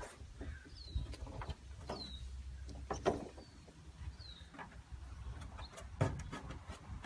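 A small bird chirping, four short high notes that fall in pitch, over scattered knocks and taps and a low background rumble.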